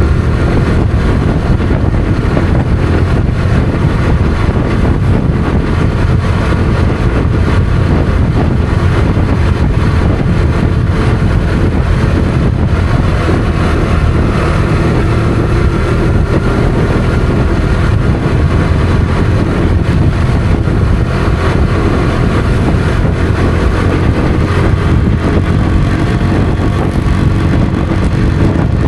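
Motorcycle engine running steadily while riding at a fairly even speed, over a constant rushing noise.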